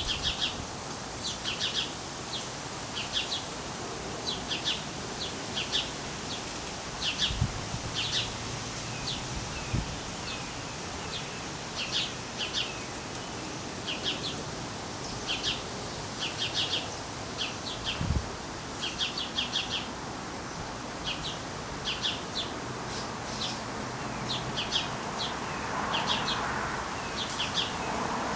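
Small birds chirping: quick clusters of short, high chirps repeating about once a second, with a few soft low thumps.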